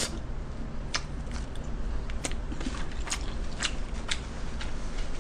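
A person chewing food close to the microphone, with scattered sharp clicks and smacks every half second to second over a steady low hum.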